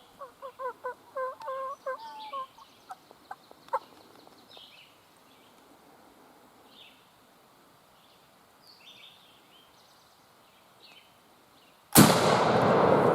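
Wild turkey gobbling: a quick run of pitched, rattling notes over the first two seconds or so, followed by a few scattered clicks, with faint songbirds chirping behind. About twelve seconds in, loud rustling and handling noise close to the microphone starts suddenly.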